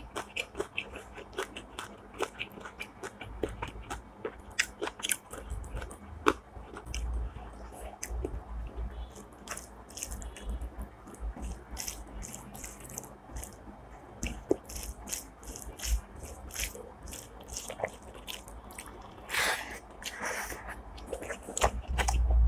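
A person eating close to the microphone: chewing with many sharp crunches, growing louder near the end.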